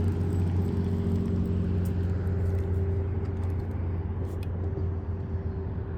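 A motor's steady low hum, easing slowly away.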